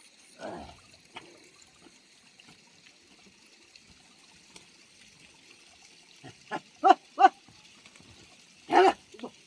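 Faint steady trickle of running water, broken near the end by short animal calls: two quick ones, then a longer one.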